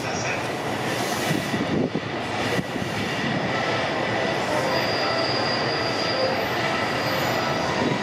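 Electric Yamanote Line commuter train running in along the platform and braking to a stop, with steady rumbling and a thin high squeal from about four and a half seconds in.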